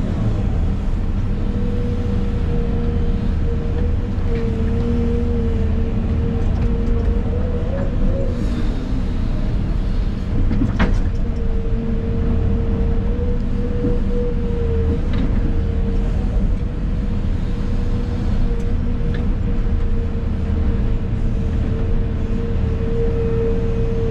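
Excavator's diesel engine and hydraulics running steadily, heard from inside the cab, with a low rumble under a steady whine. A single sharp knock about eleven seconds in.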